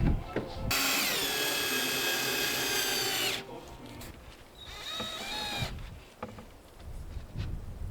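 Power drill running in two bursts. The first lasts about two and a half seconds, its pitch dropping as it starts and then holding steady. The second is short, about two seconds later.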